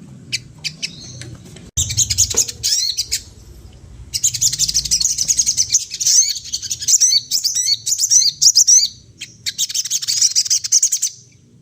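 Sogon (a sunbird) singing in rapid, high twittering runs of chirps: three long bursts with short pauses between.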